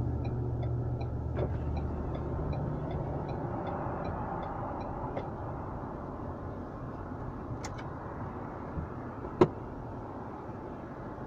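Inside a car's cabin as it slows and pulls in: the low engine and road hum fades, under the turn signal ticking about three times a second until about five seconds in. A single sharp click comes near the end.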